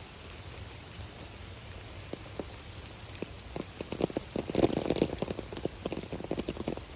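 Raindrops hitting close to the microphone over a steady background hiss: a few scattered drops at first, a dense flurry about four to five seconds in, then thinning out.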